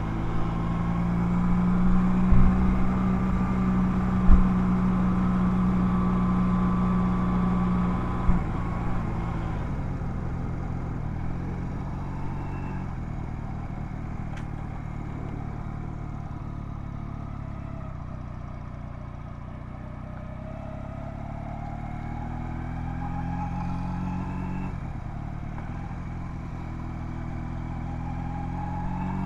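Honda Rebel 250 motorcycle engine under way: it holds a steady note for the first eight seconds or so, then the throttle closes and the note sinks as the bike slows. From about twenty seconds in it picks up again, rising in pitch, with a brief dip, likely a gear change, before rising once more near the end. A few short knocks sound in the first eight seconds.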